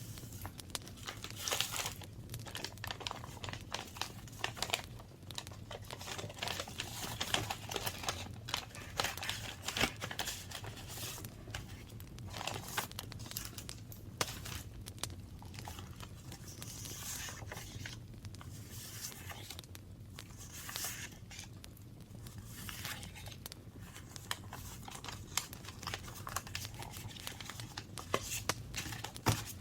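Paper being handled for journaling: crinkling and rustling in many short, irregular scratchy strokes, over a faint steady low hum.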